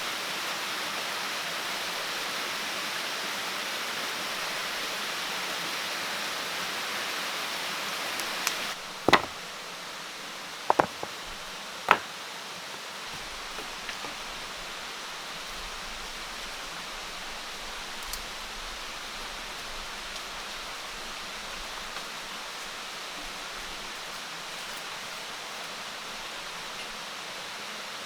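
Steady rushing water noise that drops a little in level about nine seconds in, broken by three sharp knocks over the next three seconds and a few fainter ones after.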